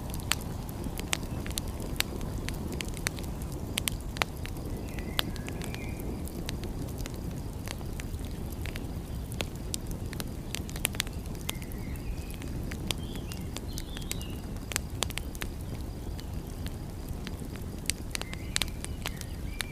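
Wood fire crackling, with many sharp pops scattered throughout over a steady low rumble. Faint short high chirps come a few times.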